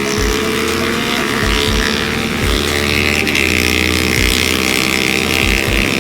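Sport motorcycle engine running under way, its pitch rising slightly and then dipping about three seconds in. Wind buffets the microphone with low thumps.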